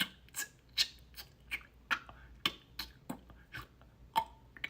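A person's mouth producing a string of sharp ejective consonant pops and clicks, about a dozen in quick succession, as an attempt at the ejective consonants of the Ubykh language.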